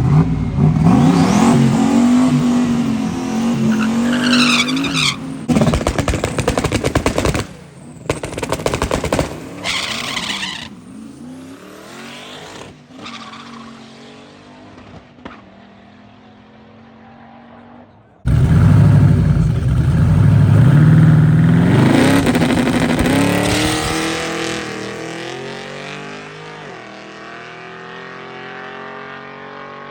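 Drag-racing engines running hard at high revs, their pitch climbing and dipping, then breaking up and fading. About eighteen seconds in, another engine starts loud, climbs, and then falls in pitch as it fades into the distance.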